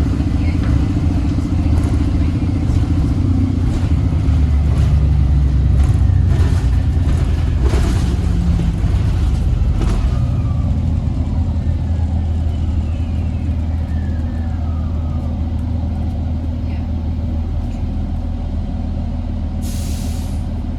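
Inside an Orion VII hybrid city bus on the move: its Cummins ISB diesel and BAE hybrid drive running with a steady low rumble, and faint falling whines in the middle. A short hiss of air, like an air-brake release, comes near the end.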